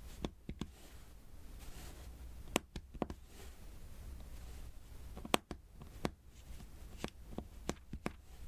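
Diamond painting pen pressing resin drills onto the sticky canvas: about a dozen sharp, irregular taps and clicks, some in quick pairs, over a faint low hum.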